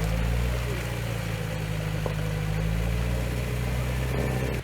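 Off-road vehicle's engine running steadily at low revs.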